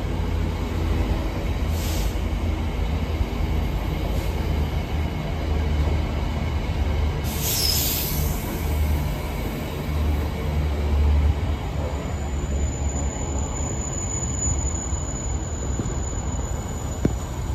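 Container freight train wagons rolling past with a steady deep rumble of wheels on rails. The wheels give brief high screeches about two and eight seconds in, and a long thin squeal from about twelve to seventeen seconds in.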